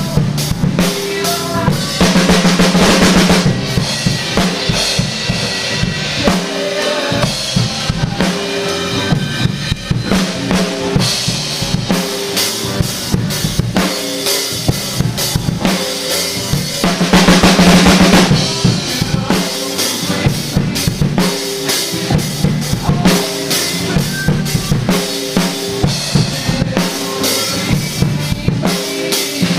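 DW Collectors Series drum kit played in a steady groove of kick, snare and cymbals, along with the recorded song. Two louder cymbal-heavy accents come about two seconds in and about seventeen seconds in.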